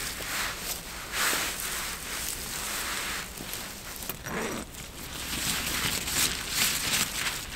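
Footsteps rustling through forest leaf litter, an uneven run of short crunching steps.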